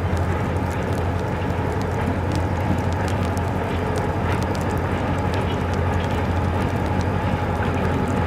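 Diesel freight locomotive running with a steady low drone, with many sharp ticks of sleet and rain over it.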